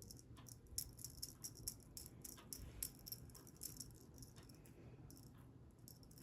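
Faint, irregular light rattling: a quick, uneven scatter of small clicks and jingles, as of a small rattling object being shaken or knocked about.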